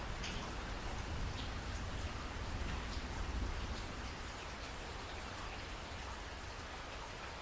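Steady rainfall with many individual drops ticking on a surface and a deep low rumble underneath, which eases slightly after about four seconds.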